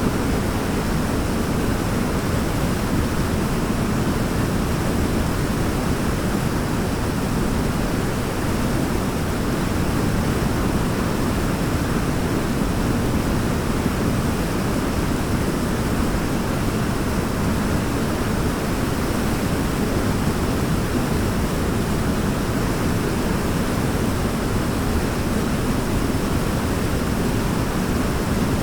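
Waterfall pouring steadily: a dense, even rush of water, deepest and strongest in the low range, with no breaks or changes.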